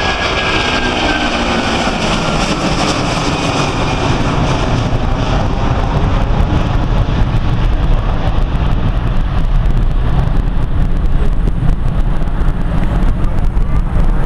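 Airbus A330-200's jet engines at takeoff power moving away after passing close by. The engine whine falls in pitch over the first few seconds, then a steady low rumbling roar continues.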